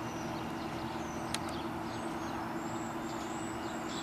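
Steady engine hum of vehicles or aircraft on an airfield, with one sharp click about a second in.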